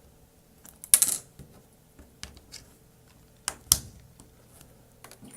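Small plastic LEGO pieces clicking and clattering as they are handled and picked out: a short rattle about a second in, two sharp clicks about three and a half seconds in, and faint ticks in between.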